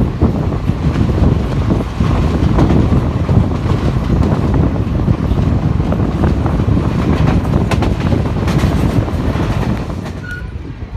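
Running noise of an express train's passenger coach at speed, heard from its open doorway: wheels rumbling on the rails, with a run of sharp clacks a little past halfway. About a second before the end it drops to a quieter rolling sound.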